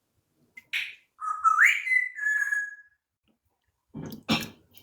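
African grey parrot whistling: after a short noisy burst, a whistle climbs in steps and settles into a held note of about a second. Two short harsh sounds come near the end.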